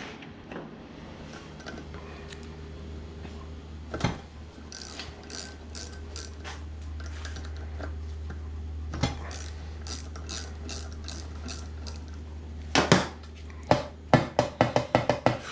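Hand tools working on metal parts: scattered clicks through the middle, a louder knock, then a quick run of clicks near the end, over a steady low hum.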